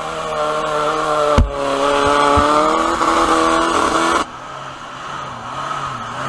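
Off-road 4x4's engine revving hard under load, with a heavy thump about a second and a half in. The engine note drops off suddenly a little after four seconds.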